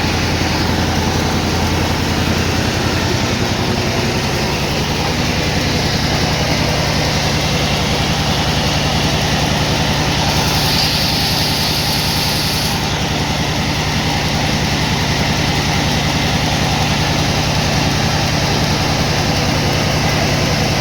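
Sawmill machinery running with a steady engine drone, its low hum stepping up in pitch a few seconds in. A short hiss comes in about halfway through and lasts a couple of seconds.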